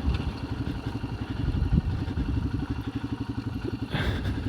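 Royal Enfield Himalayan's single-cylinder engine idling with a steady, even beat, with a brief clatter about four seconds in.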